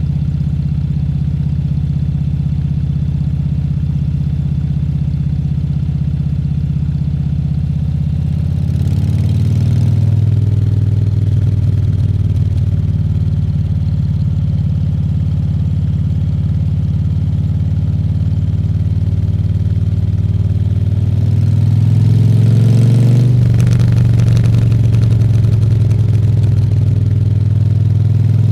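Harley-Davidson Fat Bob 114's Milwaukee-Eight 114 V-twin engine running steadily at low revs, then revving up as the bike accelerates about a third of the way in and again about three-quarters through, with the level rising each time before settling.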